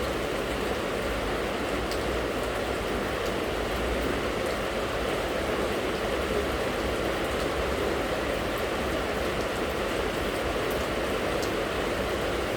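Steady rain falling: an even, unbroken hiss, with a few faint drop ticks here and there.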